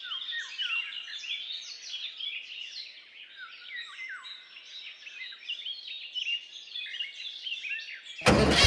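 Many small birds chirping and twittering at once, dense overlapping short calls, several sweeping down in pitch. Near the end a loud mechanical running noise cuts in abruptly and drowns them out.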